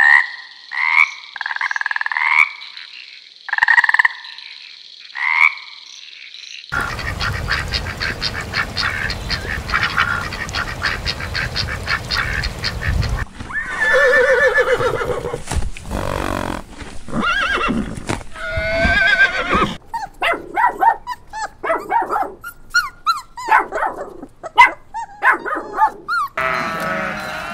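A frog croaking: about five short calls, each rising in pitch, over the first six seconds. After a cut come sounds from a string of other animal clips: grazing horses, and then dogs with a puppy.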